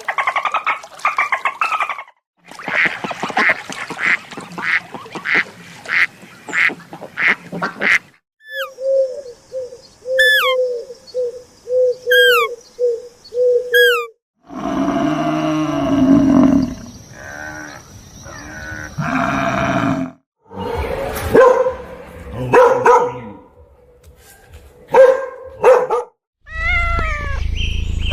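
A run of different farm animal and bird calls, one short clip after another, with sudden cuts between them: repeated calls in one stretch, pitched notes and chirps in another.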